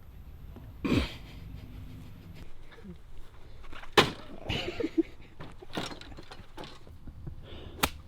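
Golf shot: a golf club strikes the ball with a sharp crack about four seconds in, after a swish about a second in, with another sharp click near the end.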